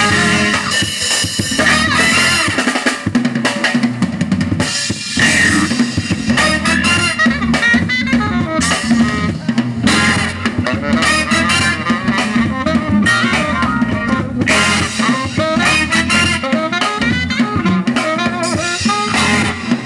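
Live band playing an instrumental stretch with the drum kit to the fore: snare and bass drum keeping a steady dance beat under sustained instrument lines.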